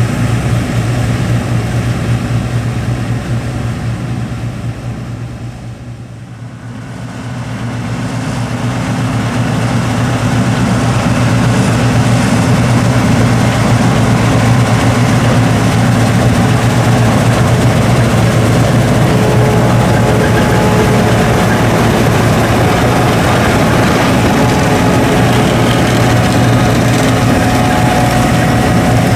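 John Deere 8820 Titan II combine running while harvesting wheat: the steady drone of its 7.6-litre turbocharged diesel engine and the machine's workings. It fades to its quietest about six seconds in, then grows louder again and holds steady.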